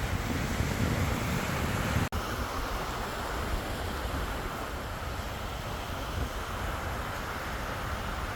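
Steady wind rushing over the microphone with a low rumble, mixed with the wash of sea surf; the sound breaks off for an instant about two seconds in.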